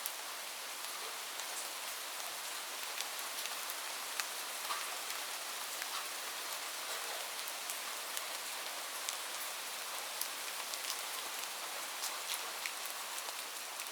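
Light rain falling steadily: an even hiss with many separate drops ticking sharply on a hard surface.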